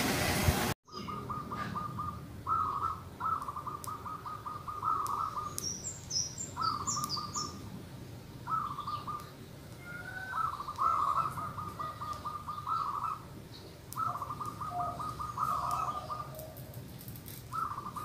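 A bird calling in repeated bursts of rapid trilling notes at one steady pitch, each burst lasting from half a second to about two seconds, with short gaps between them. Faint high chirps of another bird come about six to seven seconds in. Under a second of rushing noise opens the sound and cuts off abruptly.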